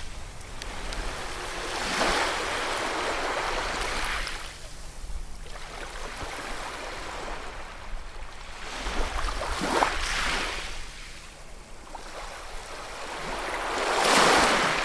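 Ocean waves breaking and washing ashore, the surf swelling and fading: waves crash about 2 seconds in, again around 10 seconds, and loudest near the end, with a low rumble underneath.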